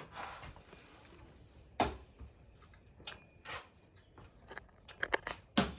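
A few sharp knocks and clicks from objects being handled: a loud one about two seconds in, then a quick cluster of clicks and another loud knock near the end.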